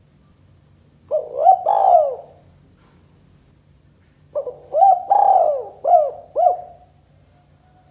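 Spotted dove cooing: a short phrase of rising-and-falling coos about a second in, then a longer phrase of five or so coos from around the middle until near the end.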